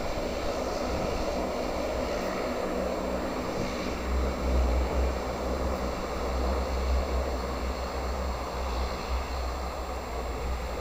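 Airliner engines, a steady rushing noise with a low rumble that grows stronger about four seconds in.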